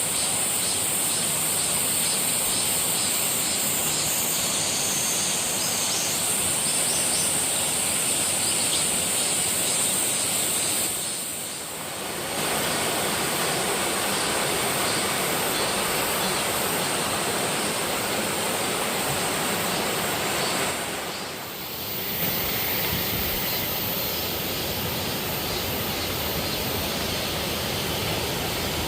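Waterfall: a steady, loud rush of falling water that dips briefly twice, about 11 and 21 seconds in.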